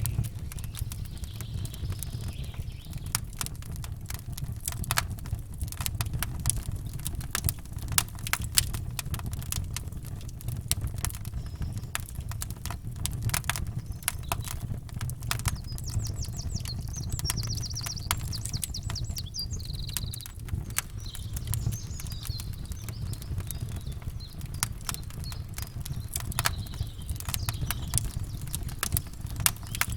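Campfire crackling and popping in a steady stream of sharp snaps over a low rumble. Small birds chirp a few times, mostly around the middle.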